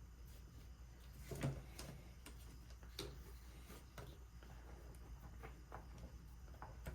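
A few faint clicks and light knocks from handling the reassembled hammer drill and its cord, over a low steady hum; the drill's motor is not heard running.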